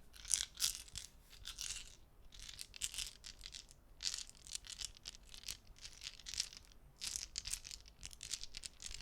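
Gaming dice clicking and clattering against each other as they are handled, in irregular clusters of quick, crisp clicks with short pauses between bursts.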